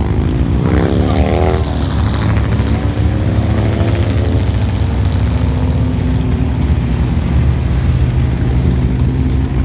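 Car engine running with a loud, steady low rumble, revved up for about a second and a half near the start and then dropping back, with a smaller rev a few seconds later.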